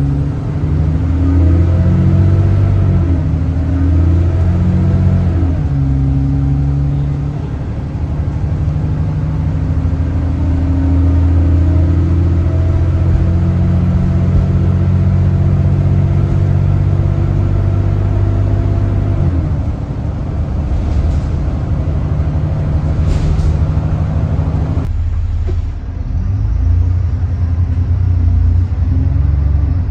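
Diesel bus engine under way, its pitch climbing and falling in steps as it accelerates and changes gear, dropping back about two-thirds of the way through. It runs without the vacuum-cleaner-like whine that earned it the 'Hoover' nickname.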